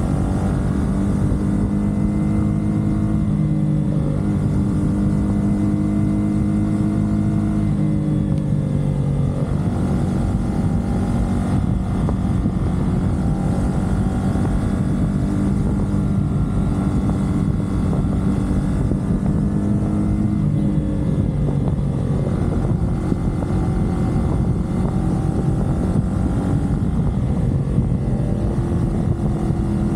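CFMoto 450SR sports bike's parallel-twin engine running at expressway speed, its pitch dipping and rising a few times with the throttle, over a steady low rumble of wind and road noise.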